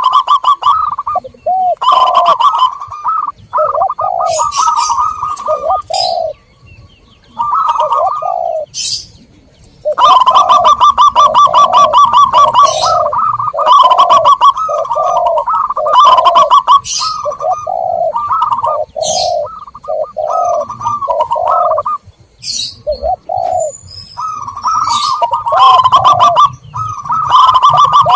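Recorded zebra doves (perkutut) and spotted doves (terkukur) cooing in runs of short repeated notes, played as a lure to call in wild doves. High chirps of small birds sound over the cooing, and the calling lulls briefly a few seconds in.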